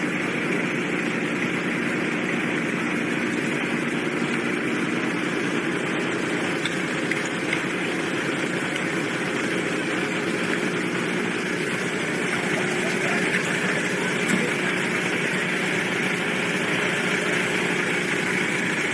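Vehicle engine running with a steady, even hum, heard from inside the vehicle.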